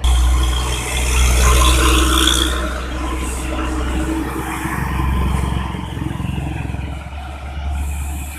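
Heavy road traffic, trucks and other vehicles passing close, with a deep steady engine rumble under tyre and road noise; loudest in the first couple of seconds.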